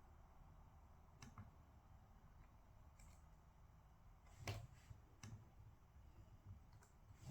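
Quiet room with a few faint, scattered clicks and taps of someone working at a desk, the loudest about four and a half seconds in.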